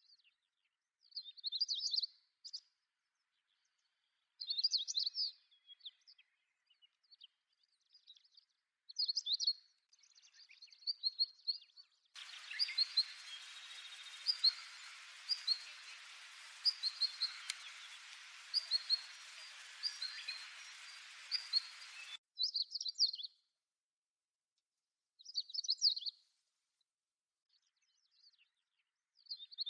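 Small bird chirping in short bursts of high notes a few seconds apart. In the middle stretch, about ten seconds long, a steady hiss lies under a run of single chirps about one a second.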